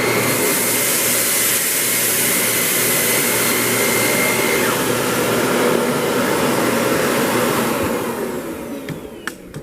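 Upright vacuum cleaner running with its brush roll on, a steady noise with a thin high whine in it for the first half, then winding down near the end.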